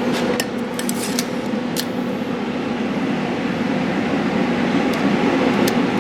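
Steady mechanical hum and rushing air noise, like a running workshop fan, with a few light clicks in the first two seconds and again near the end.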